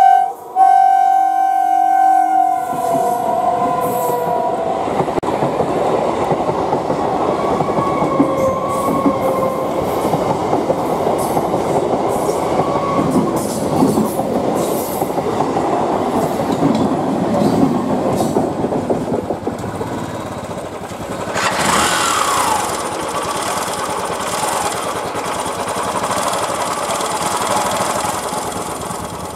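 An EMU local train blows a steady horn blast that stops about two and a half seconds in, then runs past at speed. The coaches make a loud, continuous rushing noise with wheels clicking over the rail joints. About 21 seconds in the noise turns hissier, with a brief falling squeal, and carries on to the end.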